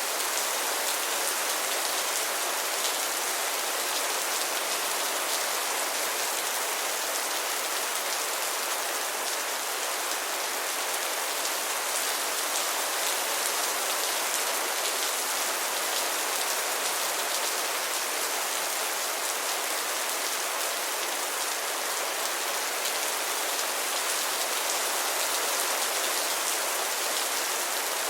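Heavy rain falling steadily, a dense even hiss of drops with fine patter high up.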